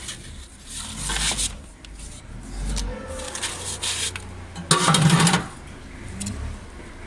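Metal ash drawer of a steel wood-burning stove being slid along its runners, with several scrapes; the loudest scrape and knock comes about five seconds in.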